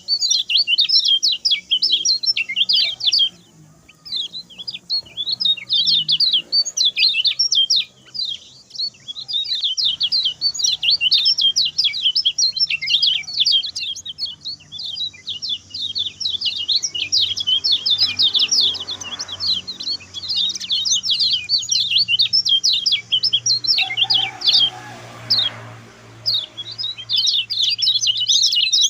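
Lemon-bellied white-eye (kecial kuning) singing a long, fast, high-pitched song of rapid notes in extended phrases, broken by brief pauses a few seconds in, around eight seconds in and near the end.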